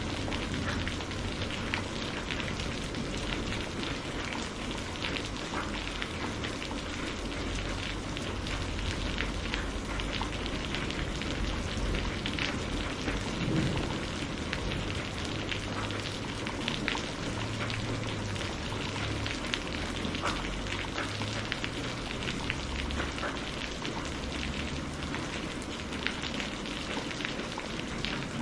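Steady rain falling, a dense hiss scattered with the ticks of single drops, over a low, uneven thunder rumble.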